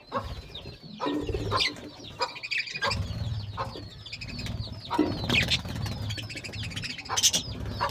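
Several birds chirping and calling in quick short notes, with wings flapping.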